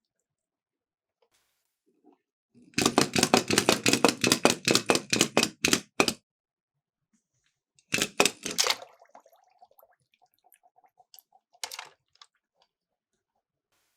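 Miniature toy cars clattering down a slope: a rapid run of clicks and rattles for about three seconds, a shorter burst of clatter about halfway through, then a few light ticks and one last brief rattle.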